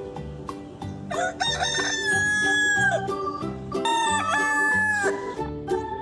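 Rooster crowing twice: a long cock-a-doodle-doo about a second in, then a shorter one past the middle, over background music with a steady beat.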